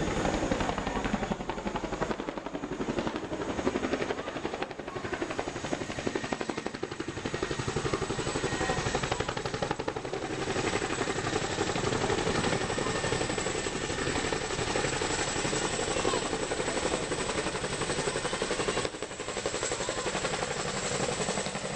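Chinook twin-rotor helicopter running close by, its rotor blades beating in a fast, steady chop.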